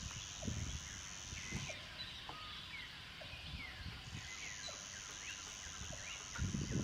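Outdoor chorus of many short chirping bird calls, with a steady high-pitched buzz that stops for a couple of seconds and then comes back. Low rumbling knocks join near the end.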